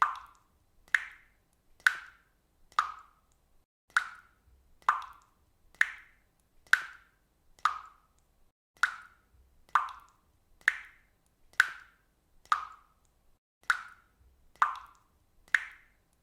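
Water dripping steadily, one drop landing about every second in an even rhythm, each drop a short sharp strike that dies away quickly.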